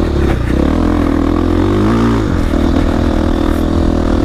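450cc single-cylinder four-stroke dirt bike engine running at low revs, rising in pitch about a second and a half in and dropping back just after two seconds.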